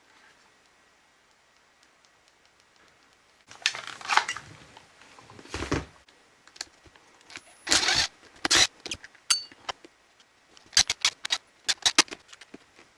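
Small hard parts and tools being handled, clicking and clinking in irregular bursts after a quiet start, with a quick run of sharp clicks near the end.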